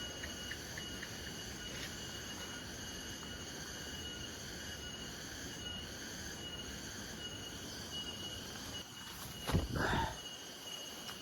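Insects trilling steadily at several high pitches over low rumbling noise, with a loud brief knock and rustle about nine and a half seconds in.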